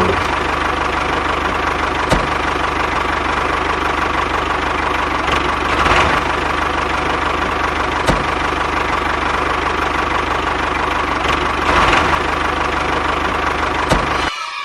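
An engine running steadily at idle, with a sharp knock about every two seconds. The sound starts and stops abruptly.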